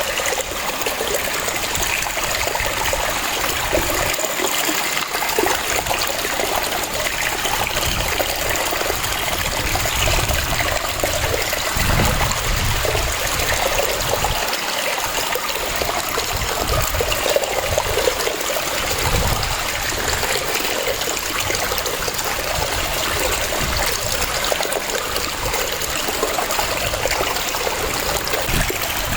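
Waterfall rushing and splashing steadily, with low rumbles swelling and fading now and then.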